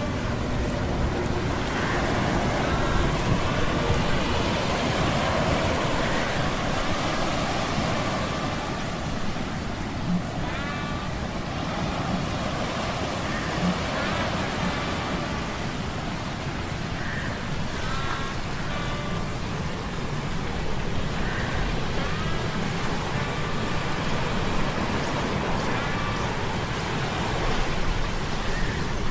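Ambient mix of humming metal gears with sea-storm sound effects: a steady rumble under a dense wash of rain and surf noise. Brief high squeaks come and go every few seconds.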